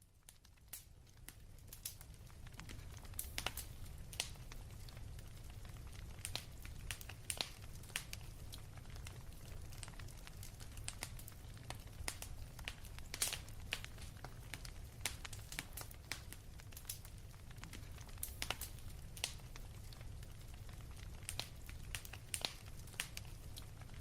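Faint, irregular crackling and clicking over a steady low rumble, fading in during the first couple of seconds.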